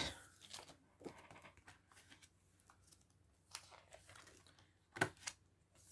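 Faint rustling and light taps of paper envelopes and cards being handled and shuffled, with a sharper tap about five seconds in.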